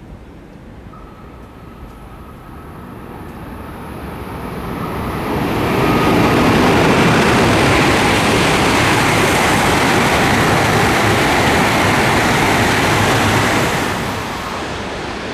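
Tohoku Shinkansen train passing: the rush of running and wind noise builds over a few seconds, stays loud for about eight seconds, then falls away quickly near the end.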